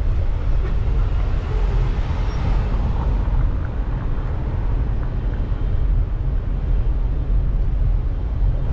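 Steady low wind rumble on the microphone while riding a bike, mixed with street traffic noise.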